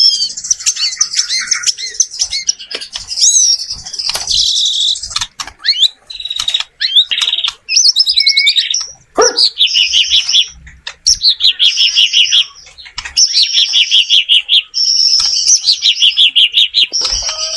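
White-rumped shama singing a varied song: slurred whistled notes and quick runs of rapid repeated notes, in phrases with short gaps between them.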